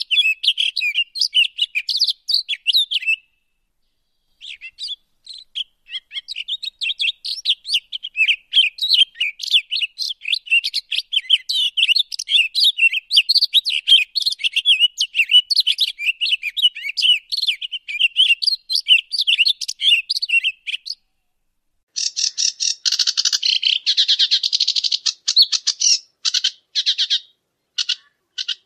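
Many birds chirping in a dense chorus of short, high calls, cut off abruptly twice. In the last few seconds a denser rasping chorus gives way to a run of short, evenly spaced pulses.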